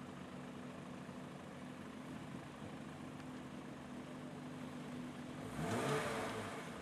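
Hill-climb race car engine running with a steady note, then about five and a half seconds in a car comes through louder with rising engine pitch before fading.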